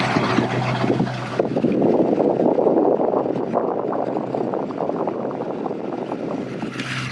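Loud rumbling noise of wind buffeting the microphone, with a steady low hum beneath it.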